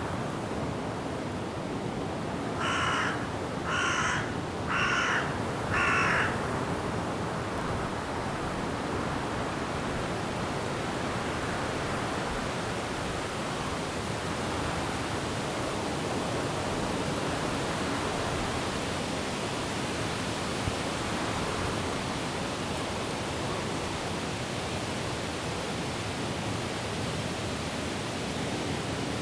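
Steady wind through forest trees with falling rain, and a bird giving four harsh calls about a second apart a few seconds in.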